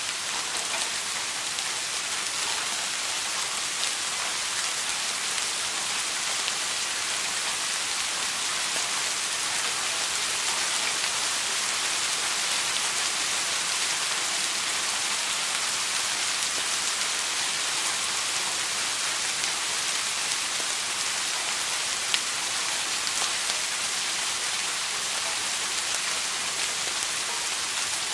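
Steady rain falling, an even hiss without pauses, with one sharp drop-like tick about three-quarters of the way through.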